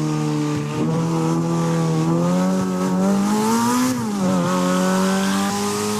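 Ferrari V8 engine running under load with a steady note. Its pitch climbs for about two seconds, drops sharply about four seconds in, then holds steady again.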